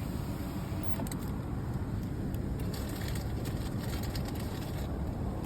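Steady low rumble of a car, heard from inside it, with a few faint light ticks.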